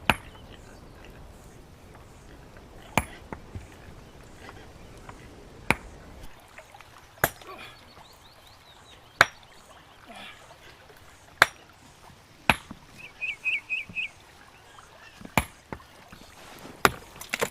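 Hammer striking stone, sharp single blows at irregular intervals of one to two seconds, as in hand-dressing building stone.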